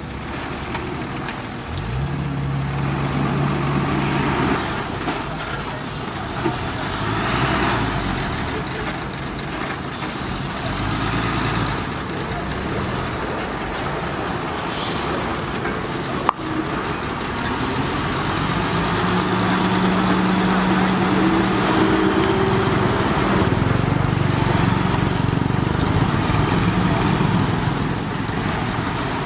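Heavy earthmoving machine's diesel engine running and working, its pitch shifting as the load changes, with a single sharp knock about sixteen seconds in.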